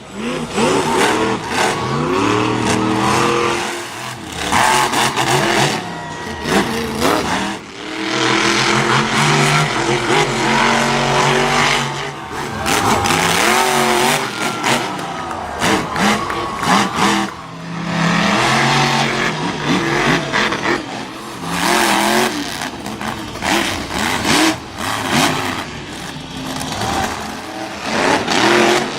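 Monster truck engines revving hard, their pitch climbing and dropping again and again. The sound breaks off abruptly several times as one run gives way to the next.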